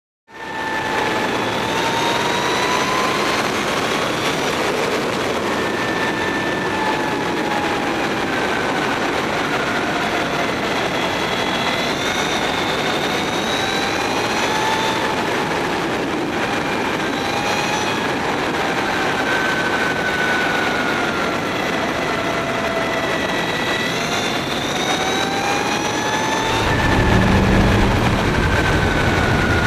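Mavizen TTX02 electric motorcycle at speed, heard onboard. The whine of its electric motor and drivetrain rises and falls in pitch as the bike speeds up and slows down, over heavy wind rush. A low rumble joins near the end.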